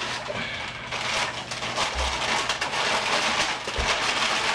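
Paper and packaging rustling and crinkling in continuous irregular crackles as a gift is unwrapped by hand.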